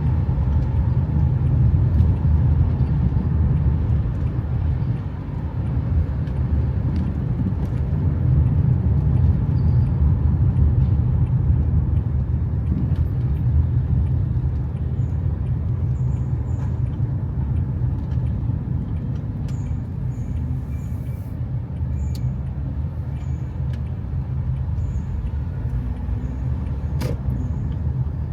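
Steady low rumble of a car on the move, gently swelling and easing, with faint short high ticks in the second half.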